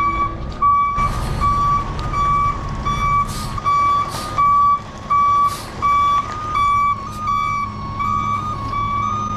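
Heavy truck's backup alarm beeping steadily, about one and a half beeps a second, over the low rumble of its diesel engine as it reverses into position. A few short hisses are heard in the middle.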